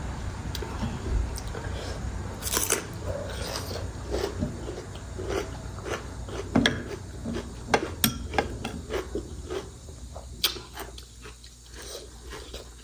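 Close-miked chewing and biting of momo dumplings, with irregular wet clicks and smacks of the mouth.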